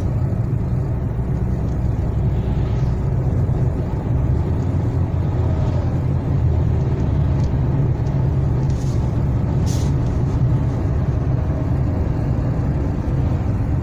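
A Lada Kalina 2's 21126 engine running steadily under load while driving in fourth gear, heard from inside the car over tyre noise. The owner hears a soft ticking in it, which he suspects is a hydraulic lifter knocking when the engine is hot.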